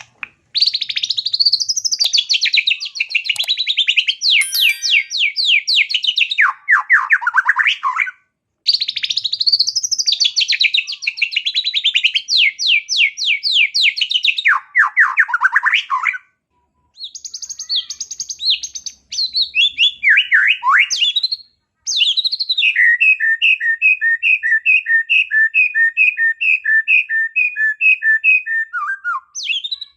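White-rumped shama singing a long, varied song of fast trills and sweeping whistled phrases, broken by short pauses. Near the end it runs into a long even series of repeated two-note chatters, several a second.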